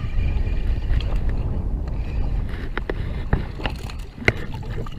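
Wind buffeting the microphone in a steady low rumble, with a few sharp clicks and knocks in the second half, the loudest about four seconds in.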